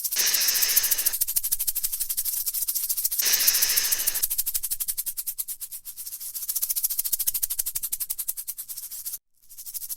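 Rattlesnake shaking the keratin rattle on its tail: a fast, continuous dry buzz. Two louder, hissier surges of about a second each come near the start and about three seconds in, and the sound drops out briefly near the end.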